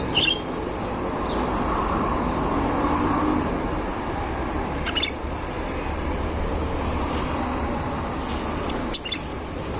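Caged budgerigars giving short, high chirps, three times: near the start, about five seconds in, and near the end, over a steady rumbling background noise.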